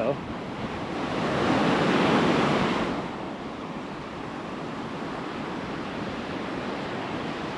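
Ocean surf on a sandy beach: a wave breaks and rushes in, swelling over the first two seconds and dying away about three seconds in, followed by a steady, lower wash of surf.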